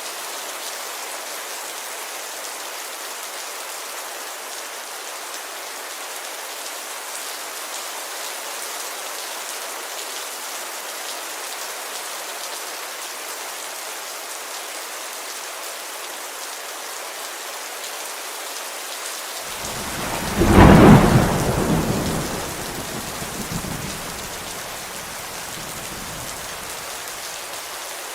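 Steady rain falling on a window, with one loud clap of thunder about two-thirds of the way through that rumbles on for a few seconds and dies away.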